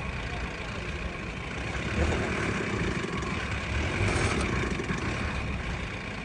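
Engine of a 4x4 vehicle running, its sound rising and falling a little, as it is driven back and forth while stuck in a muddy riverbed.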